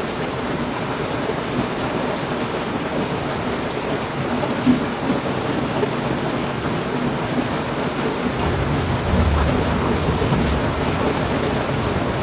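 Heavy rain falling steadily, with a low rumble of thunder coming in about two-thirds of the way through.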